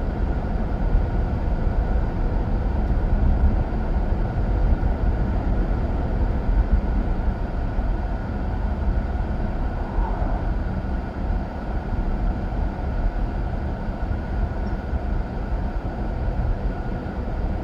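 Steady road and engine noise heard from inside a moving car's cabin while driving at speed, with a faint steady whine above it.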